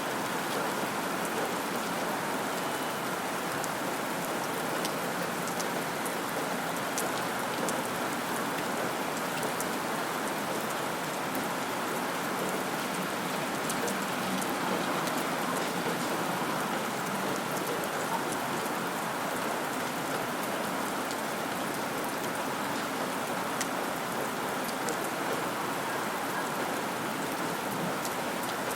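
Steady rain falling, an even patter with scattered fine drop ticks and no thunder.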